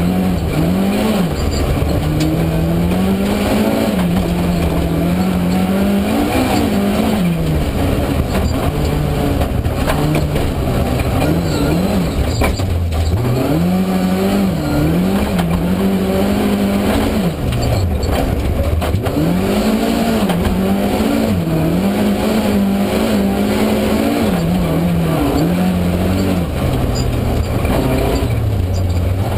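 Volvo 200-series rally car's engine heard from inside the cabin while driven hard: the revs repeatedly climb and drop with gear changes and lifts. A steady low rumble runs underneath.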